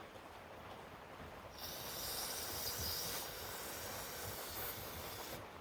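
A steady hiss that starts suddenly about a second and a half in, holds for nearly four seconds, and cuts off sharply near the end.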